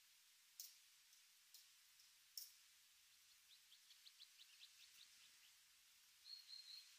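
Small finches calling faintly: three sharp high chirps, then a quick run of about a dozen short ticking notes, and a brief high whistled note near the end.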